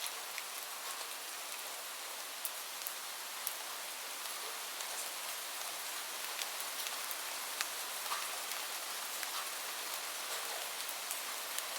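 Steady rain falling, an even hiss dotted with many separate drops ticking on a surface.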